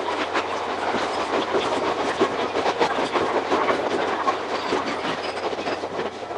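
Iga Railway 200 series electric train (ex-Tokyu 1000 series) running, its wheels clattering quickly and repeatedly over the rail joints.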